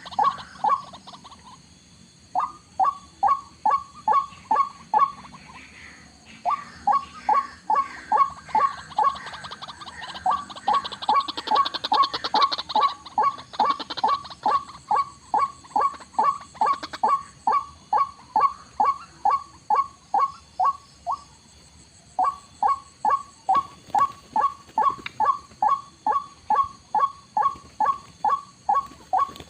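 White-breasted waterhen (ruak-ruak) calling: a long series of short, evenly repeated notes, about two to three a second, in runs with brief pauses, over a steady high-pitched whine.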